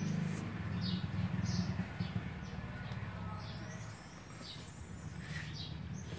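Small birds chirping in short, scattered calls over a steady low hum that eases off about two-thirds of the way in.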